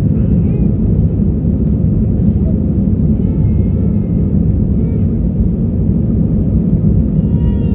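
Steady low rumble of an Airbus A320-200's jet engines during takeoff, with faint voices in the background.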